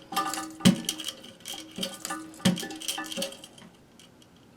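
Metal flapper chain and clip clinking against a toilet's flush lever and porcelain tank: about four sharp clinks, each with a short ring, and lighter ticks between them. The sounds die away after about three seconds.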